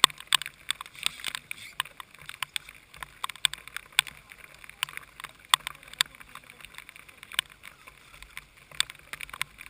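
Raindrops striking an onboard camera's housing: irregular sharp ticks, several a second, over a faint low hum.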